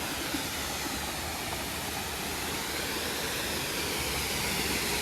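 Waterfall pouring: a steady rush of falling water that grows slightly louder toward the end.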